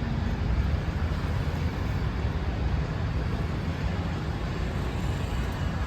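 A car's steady low rumble, with no distinct events.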